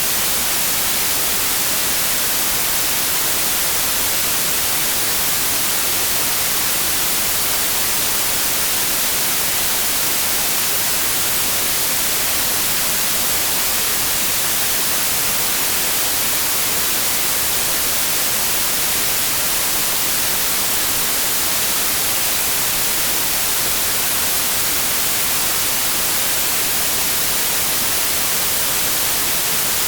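Steady synthetic white noise: an even, unchanging hiss, strongest in the high end.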